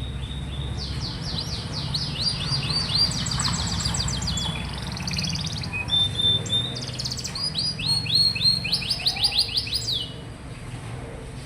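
Domestic canary singing a long song of rapidly repeated trills and quick downward-sweeping notes, stopping suddenly about ten seconds in.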